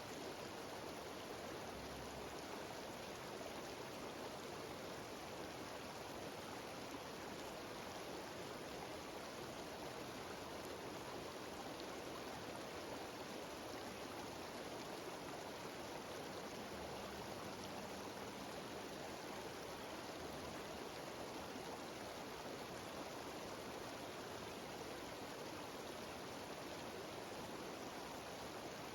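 A mountain waterfall cascading down a stream, a steady, unbroken rush of falling water.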